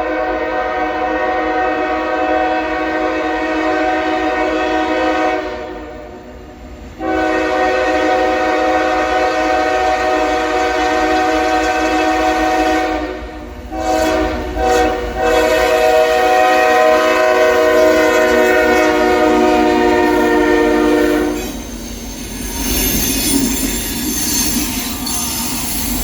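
Locomotive air horn, the K5L horn on a GE ES44AH, sounding the grade-crossing signal: two long chords, two short toots, then a final long chord. When the horn stops near the end, the freight train's passing rumble and wheel-on-rail noise take over.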